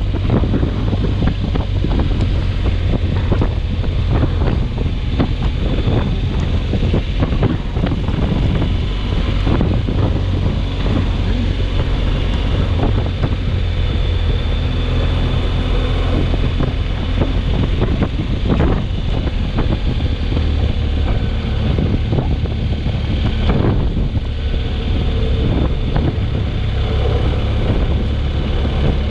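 Storm wind buffeting the microphone: a loud, steady low rumble with constant crackling gusts.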